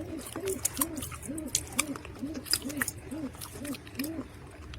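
Dry mud crunching and crumbling in sharp crackles, with a steady run of low hooting calls behind it, about two or three a second, that stop near the end.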